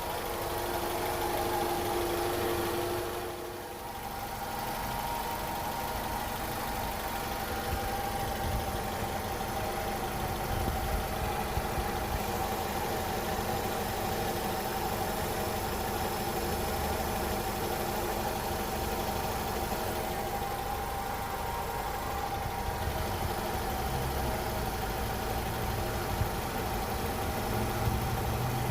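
First-generation Honda CR-V engine idling steadily, with a steady hum and a higher whine-like tone running through it. About three seconds in, the level dips briefly and a lower tone drops out.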